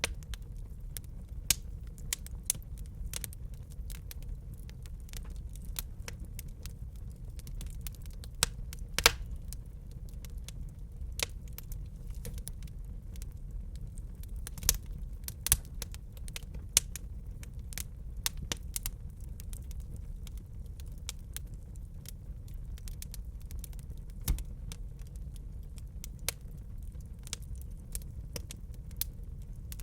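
Wood fire burning in a fireplace: a steady low rumble with irregular crackles and occasional louder pops.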